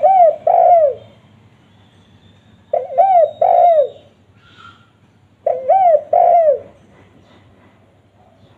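Spotted dove (tekukur) cooing: three phrases spaced about two and a half seconds apart, each a short note followed by two longer coos that fall in pitch.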